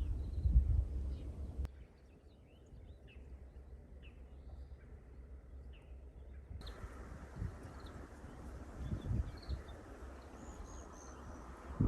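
Small birds chirping now and then over outdoor ambience. A low wind rumble cuts off abruptly about two seconds in, and a steady hiss comes back abruptly a little past halfway.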